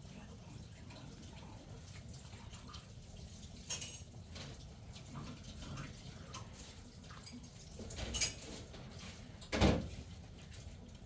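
Scattered knocks and clinks over a steady low rumble, the loudest knock about nine and a half seconds in.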